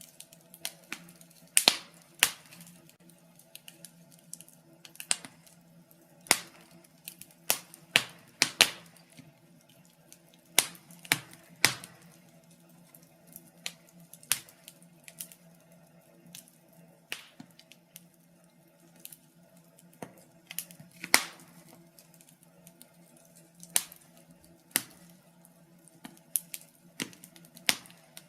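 Wood fire crackling in a fireplace, with irregular sharp pops and snaps, a few of them loud, over a faint steady low hum.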